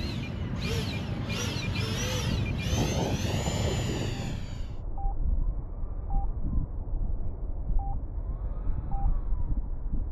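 Battery-powered RC model plane's motor whining overhead in gusty wind, its pitch swinging up and down in repeated arcs as it makes passes and changes throttle. The whine cuts off suddenly about five seconds in, leaving a fainter motor tone, wind rumble on the microphone and a few short electronic beeps.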